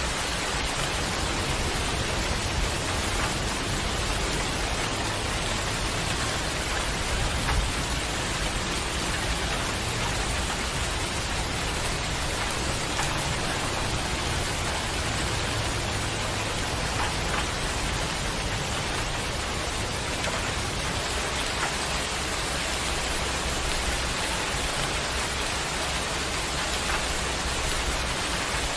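Steady rain falling at night, an even hiss of rain on surfaces with scattered individual drop ticks.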